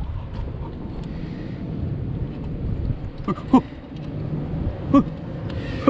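Strong wind buffeting the microphone, with the low rumble of waves on a rocky shore, steady throughout; two or three brief sharp sounds break in a little past halfway and near the end.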